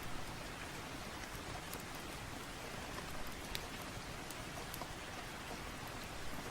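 Steady rain, heard as an even hiss with scattered sharp ticks of drops through it.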